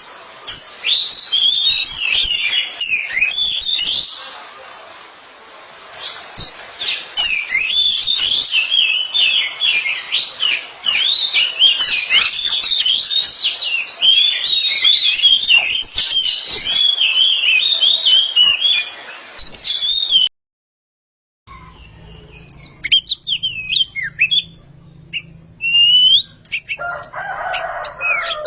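A pair of Oriental magpie-robins singing against each other: rapid, varied whistled song phrases, dense and nearly continuous. The song cuts off suddenly about twenty seconds in, and after a second of silence sparser whistles resume, with a brief rustling noise near the end.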